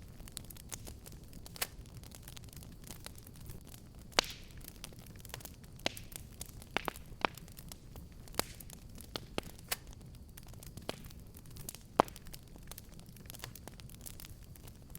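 Fire crackling in a fireplace: a steady low rumble of burning with frequent sharp pops and snaps, the two loudest a little after four seconds in and at about twelve seconds.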